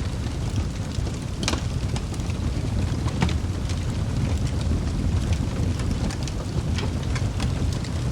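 Wood fire burning in a fireplace: a steady low roar of flames with scattered sharp crackles and pops from the logs, the loudest about one and a half seconds in.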